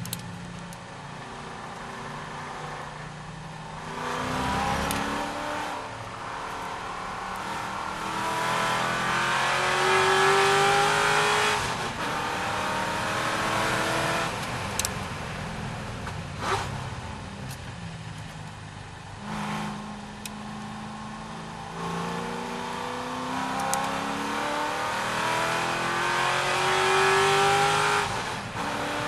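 C6 Corvette V8 race car accelerating hard twice, its engine note climbing through the gears and then dropping off suddenly as it lifts and brakes. There are a couple of sharp clicks between the two runs.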